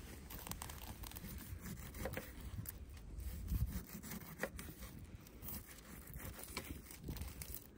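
Knife cutting through a fire-roasted pineapple: faint sawing and scraping with scattered small clicks.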